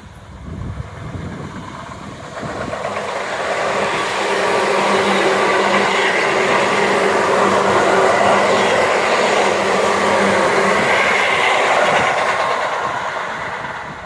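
Tobu Tojo Line electric train passing: its running noise builds over a couple of seconds, holds loud for several seconds with a steady hum under it, then fades away near the end.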